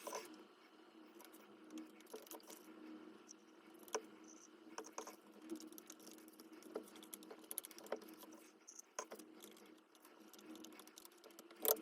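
Faint, irregular small clicks and taps of gypsum plaster being stirred with black tint in a container, over a faint steady hum.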